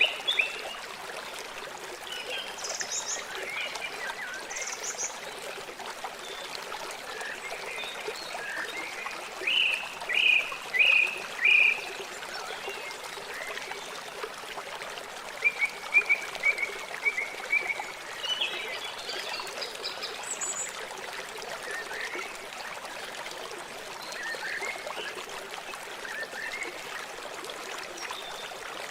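River water flowing steadily, with birds chirping over it in short runs of calls. The calls are loudest about ten seconds in and again a few seconds later.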